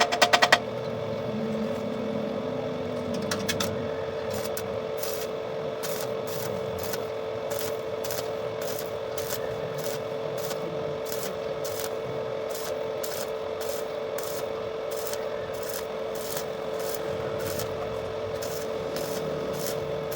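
Rhythmic hand scraping or filing strokes on metal, about two a second, over a steady hum.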